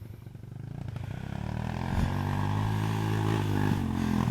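Dirt bike engine running at low revs, getting louder over the first two seconds and then holding steady.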